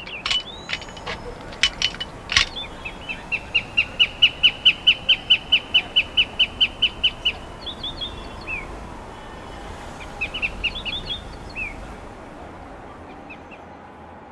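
A bird calling: a few sharp clicks near the start, then a fast, even run of about twenty high chirps, about five a second, followed by a few scattered chirps, over faint steady background noise.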